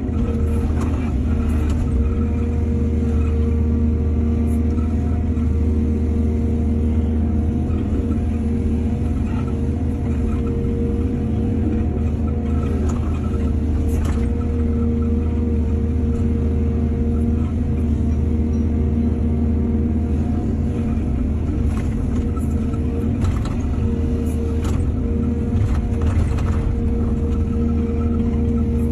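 Heavy diesel engine of an excavator running steadily at one speed, with a few sharp knocks and clanks here and there.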